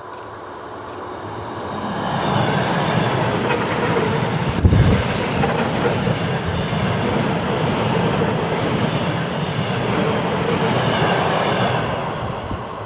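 Ten-car ER9M electric multiple unit passing close by on the rails. The running noise swells over the first couple of seconds, holds steady while the cars go by, and fades near the end as the train moves away. There is a single sharp low thump about five seconds in.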